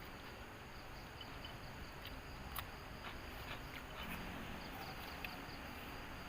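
Insects chirping steadily as a faint background, with a few scattered sharp clicks, one louder about two and a half seconds in.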